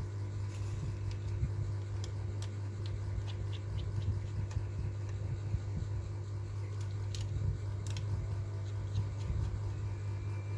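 Steady low electrical hum with scattered light clicks and taps.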